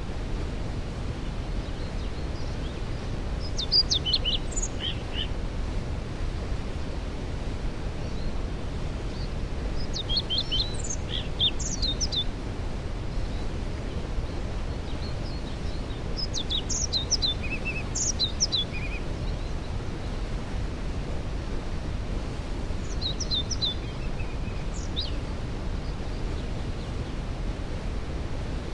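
Waterfall rushing steadily, with a songbird singing a short phrase of quick, falling high notes four times, about every six or seven seconds.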